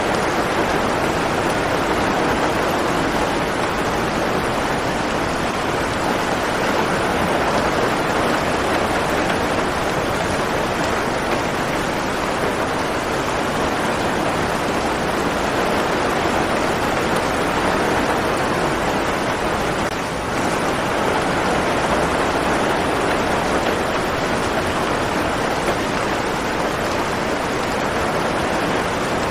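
Steady heavy rain making a dense, even hiss with no separate drops or thunder standing out.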